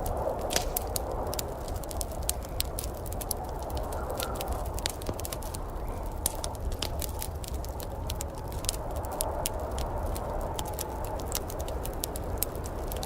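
Wood fire crackling in a fireplace: many small, sharp, irregular pops and snaps over a steady low rushing background.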